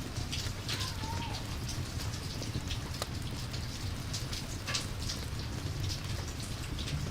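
Steady rain, with scattered sharp drip-like ticks over a continuous low rumble.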